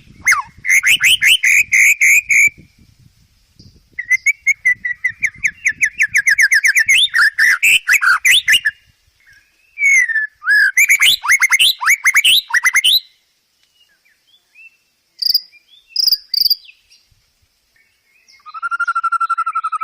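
Songbird singing a masteran song: bursts of fast repeated trills and sweeping whistled notes, separated by short pauses, with a few seconds of near quiet after the middle and a new fast trill near the end.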